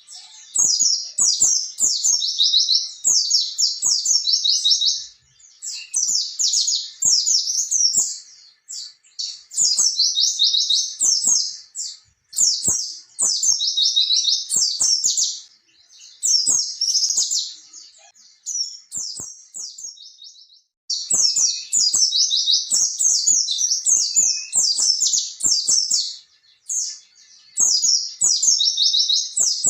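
White-eye (pleci) singing its long, rolling wild-type song: rapid high twittering warbles strung into runs a few seconds long, broken by short pauses, with faint clicks beneath.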